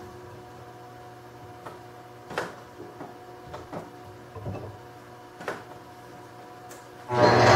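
A wood lathe runs without cutting: a steady motor hum with a few light, scattered taps and knocks. Near the end a turning tool bites into the spinning wood, and a loud cutting noise starts abruptly and carries on.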